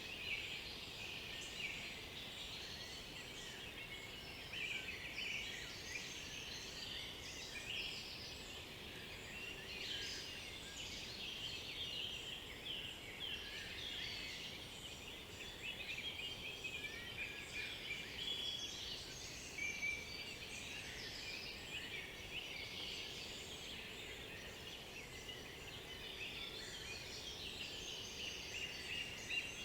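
Chorus of several songbirds singing at once in woodland, many short overlapping chirps and trills without a break.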